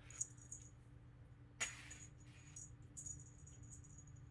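Faint, scattered light jingling and clicking from cats playing with a toy bird, with one sharper click about one and a half seconds in, over a faint steady hum.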